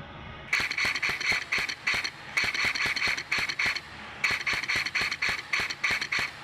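A customised KWA Commando airsoft electric gun (AEG) firing three strings of rapid shots, each string lasting one to two seconds, heard close to the gun.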